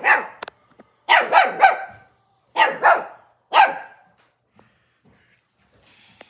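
Pet dog barking: about seven sharp barks in three quick volleys, one at the start, three about a second in and three more around three seconds in, then it falls quiet.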